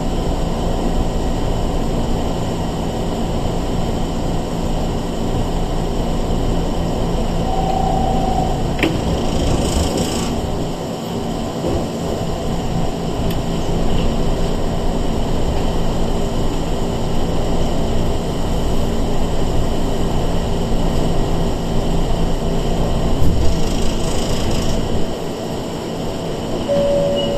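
Interior running noise of a Sanki Railway 101 series electric train under way: a steady rumble of wheels on rail and the car body. Two brief hissing sounds come about ten seconds in and again near the end, and the noise eases slightly just before the end.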